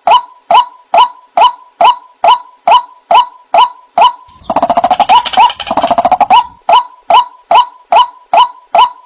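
White-breasted waterhen calling: a short note that dips slightly in pitch, repeated evenly about twice a second, with a faster stuttering run of notes lasting about two seconds midway.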